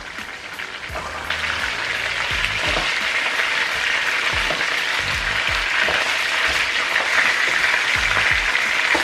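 Chicken legs sizzling as they shallow-fry in hot oil, a steady crackling hiss that grows louder about a second in.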